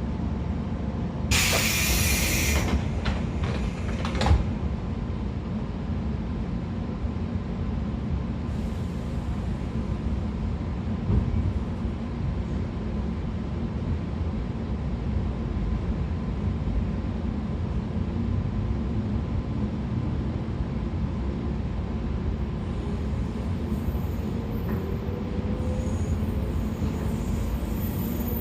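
Running noise inside a 113 series electric train motor car with MT54 DC series-wound traction motors: a steady rumble of wheels and motors, with a short loud hiss about a second and a half in and a couple of sharp knocks. Near the end a faint whine begins to rise in pitch.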